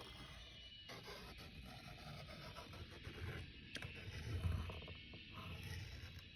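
Faint scratching of a pen drawing on paper, with an occasional light click.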